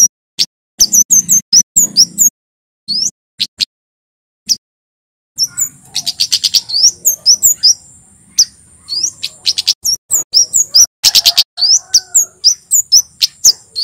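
Male flowerpecker (kemade jawa) calling in rapid runs of sharp, high-pitched chips, with a pause of a few seconds early on. A steady high-pitched buzz sits behind the calls from about five seconds in.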